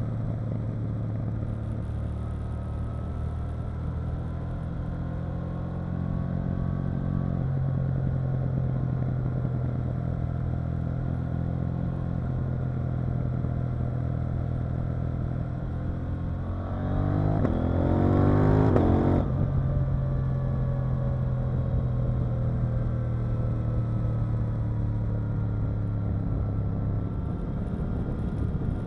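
KTM 890 Duke R parallel-twin engine running steadily on the road. A little past halfway the throttle opens hard: the engine note climbs in pitch and gets louder for about two seconds, then drops back at a gear change and settles into steady running again.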